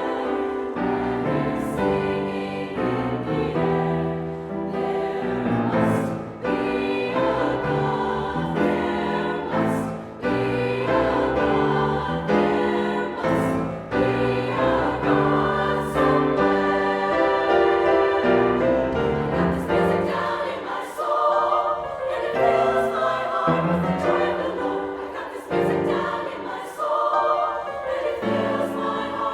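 Choir singing a sustained choral piece, many voices holding and moving between chords.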